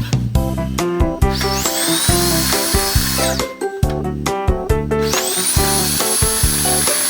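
Background music over a power drill's motor, which whines up to speed about a second and a half in, stops after about a second and a half, then spins up again about five seconds in and keeps running. The drill is a Makita 8406 diamond core drill.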